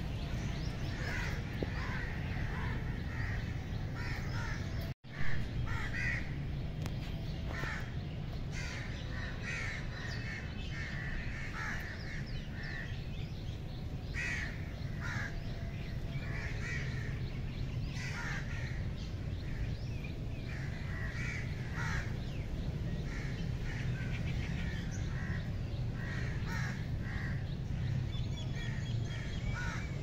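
Birds calling again and again with short, harsh caws, over a steady low rumble. About five seconds in the sound drops out briefly and comes back with a sharp click.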